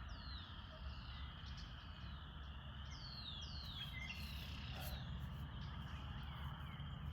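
Birds calling over and over with short whistles that slide downward, over a steady high trill of insects.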